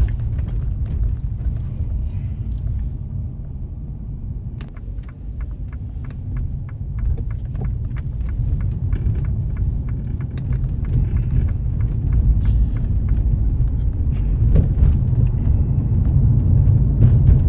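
A car driving on the road: a steady low rumble of tyres and engine, with many small ticks, growing louder over the last few seconds.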